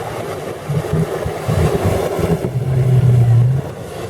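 Mud truck engine running hard under load, holding one steady low note for about a second before dropping off near the end.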